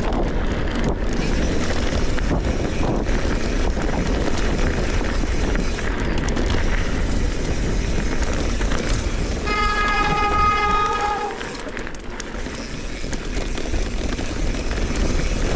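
Steady rushing of wind on the microphone and tyres rolling over a dirt trail during a fast ride. About ten seconds in comes a high pitched squeal lasting about a second and a half, and after it the rushing eases for a couple of seconds.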